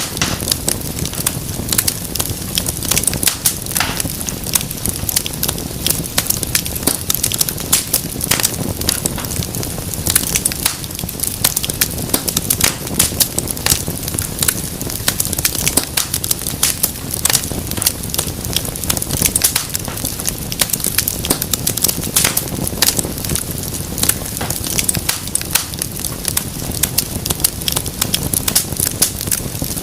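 Wood fire burning in a fireplace with a steady low rumble of flame and constant crackling, many sharp pops and snaps.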